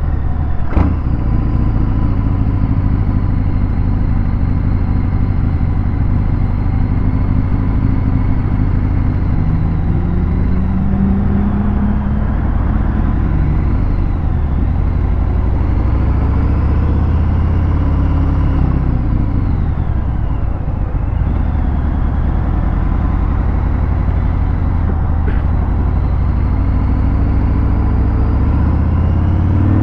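Harley-Davidson Fat Bob 114's Milwaukee-Eight V-twin through a Vance & Hines Hi-Output 2-into-1 exhaust, running in traffic with the revs rising and falling several times as the throttle opens and closes.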